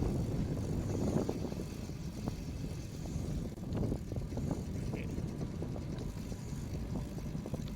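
Riding noise of a tandem bicycle rolling along a path: a steady low rumble of tyres and air moving past, with scattered small clicks and ticks.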